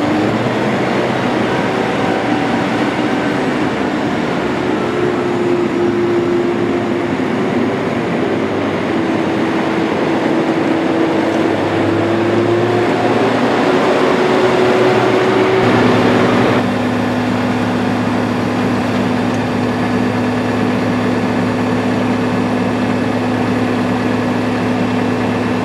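Kubota M7-171 tractor's diesel engine running at raised speed, its pitch wavering slightly, then dropping suddenly to a steady idle about sixteen seconds in.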